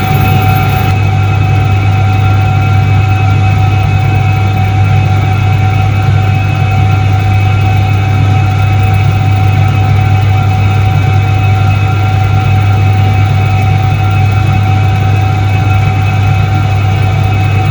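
Soviet Iset-3 washing machine from 1978 running: its electric motor gives a loud, steady hum with a constant whine above it, unchanging throughout.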